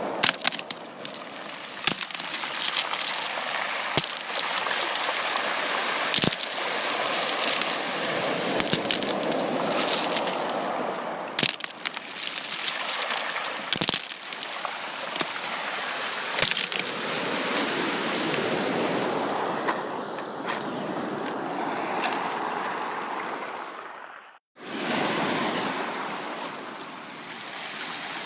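Sea waves breaking and washing up a beach, a rushing surf that swells and ebbs, with scattered sharp crackles. About 24 seconds in, the sound cuts out for a moment and then comes back.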